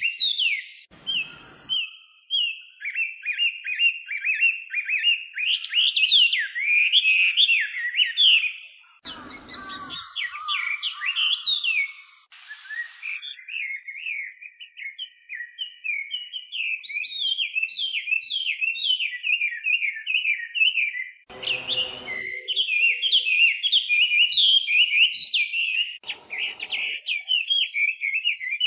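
Chinese hwamei (melodious laughingthrush) singing a long, fast, varied song of chirps and whistled phrases with hardly a pause. A few short, low noise bursts break in, near the start, around a third of the way in and again past the middle.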